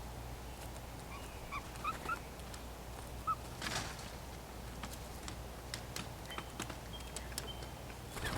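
Wild birds giving short, faint rising chirps, several in the first half, with scattered sharp clicks and taps, over a steady low hum.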